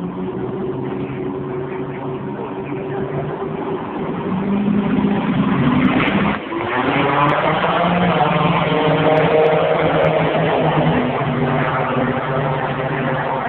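Drag-racing vehicle engine running loud, then revving up hard from about four seconds in. There is a brief drop about six seconds in, after which the pitch climbs again as it accelerates down the strip.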